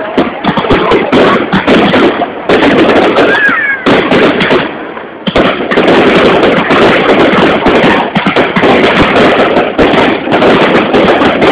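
Fireworks going off in a dense, continuous barrage of bangs and crackles, with a brief lull about five seconds in.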